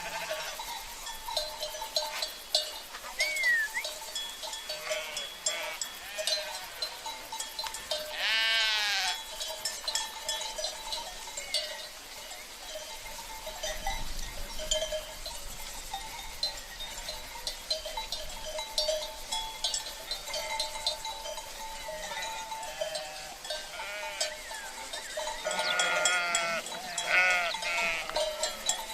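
Flock of sheep with bells (cencerros): the bells clink and clank irregularly throughout. One sheep bleats about eight seconds in, and several bleat near the end.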